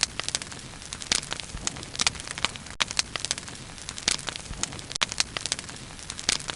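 Wood bonfire burning, with frequent sharp, irregular crackles and pops over a steady low hiss of the flames.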